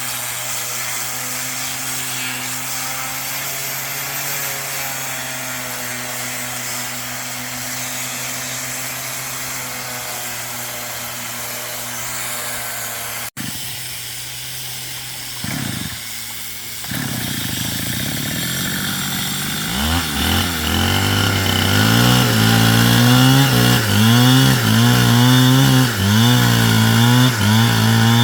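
Motorised power tool running on wood: a steady motor note at first, then, after a brief break, a louder run from about 20 s in whose pitch rises and dips again and again as the tool is loaded in the wood.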